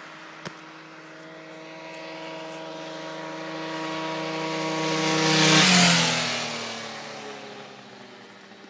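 Keeway Hurricane scooter riding past at speed, its engine note holding steady as it approaches, then dropping in pitch as it goes by a little before six seconds in and fading away.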